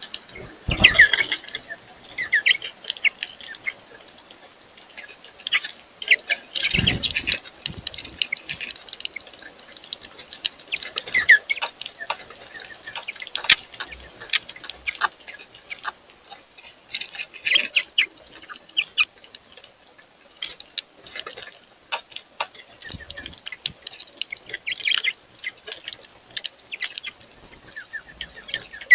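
Small birds chirping: many short, high calls scattered throughout. A few dull thumps come through, one about a second in and another about seven seconds in.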